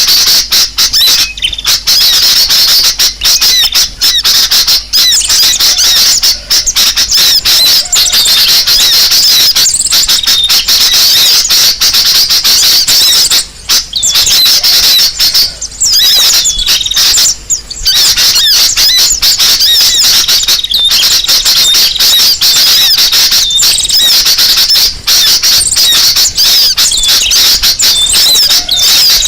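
Dense, loud chatter of many small birds calling at once, high-pitched chirps and trills packed close together with only brief pauses: a noisy bird-commotion lure recording (suara pikat) played to draw wild birds in.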